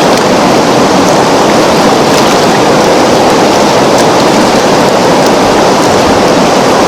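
Steady rushing of running water: a dense, even wash of sound with faint scattered ticks.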